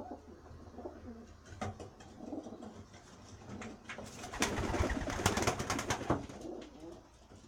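Racing pigeons cooing softly. About four and a half seconds in comes a loud flurry of rapid clattering that lasts a little under two seconds.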